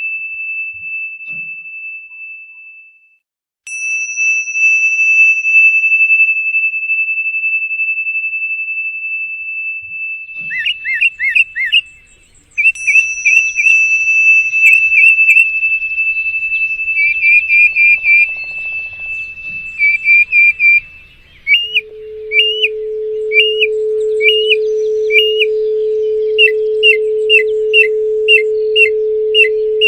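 A high pure tone rings and slowly fades, then sounds again about four seconds in. From about ten seconds in, birdsong joins with quick repeated chirps, and about two-thirds of the way through a low steady 432 Hz tone swells in and holds under the chirping.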